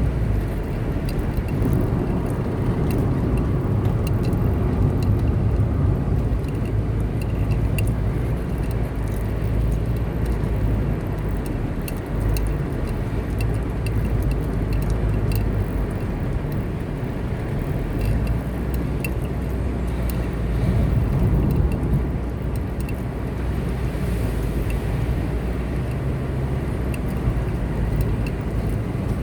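A car driving along a road: a steady low rumble of engine and tyre noise, with faint scattered ticks.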